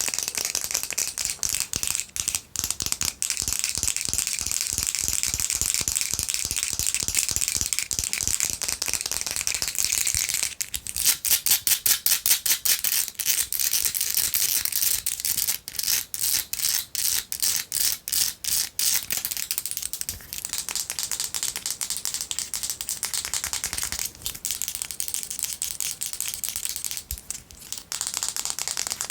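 Long fingernails rapidly scratching and tapping, first on a box of tissues and then on a perfume bottle. Dense scratching runs for about the first ten seconds, then gives way to a run of loud, fast taps, several a second. Quieter scratching and tapping follows for the last ten seconds.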